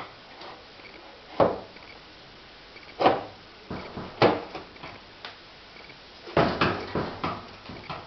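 A series of sharp knocks and clunks: single ones spaced a second or so apart, then a quick run of several near the end.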